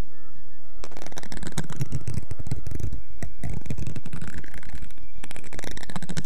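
Close-miked ASMR trigger sounds: dense scratching and crackling with many rapid clicks, right against the microphone.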